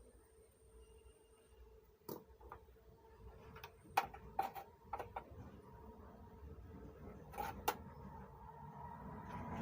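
A few short sharp clicks and taps, one about two seconds in, a cluster between about three and a half and five seconds, and two more near seven and a half seconds, over a faint steady hum.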